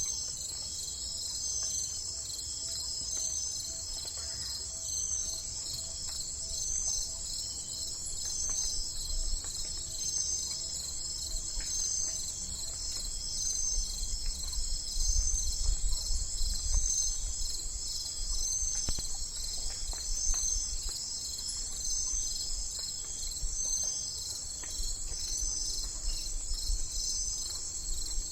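A steady insect chorus: a continuous high trill that pulses about once a second. A low rumble swells about halfway through, then eases.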